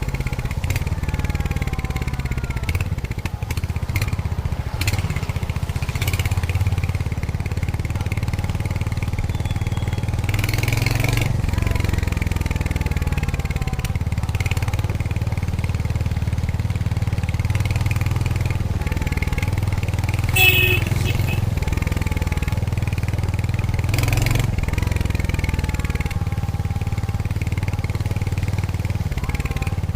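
Royal Enfield Hunter 350's single-cylinder engine and exhaust running steadily under way, its pitch rising and falling with the revs. A brief high tone sounds about two-thirds of the way in.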